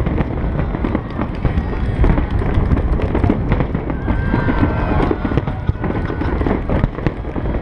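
Fireworks going off in quick succession: a dense run of bangs and crackles over a steady low rumble, with people's voices mixed in.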